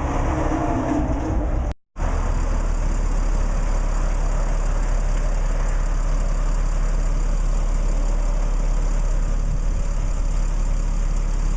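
Vehicle engine idling steadily, with a brief cut-out a couple of seconds in.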